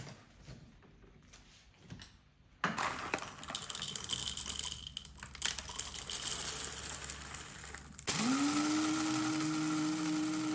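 A few seconds of rattling, hissing kitchen noise, then a small electric appliance motor starts about eight seconds in, rising quickly in pitch and settling into a steady hum.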